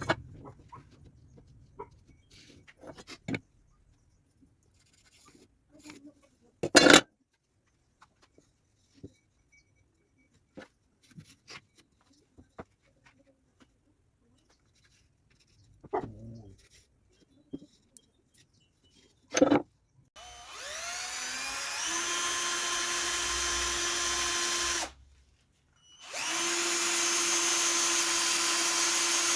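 Scattered knocks and clicks from handling tools and work, then a power drill that winds up with a rising whine about two-thirds of the way through, runs steadily for about five seconds, stops briefly and runs steadily again.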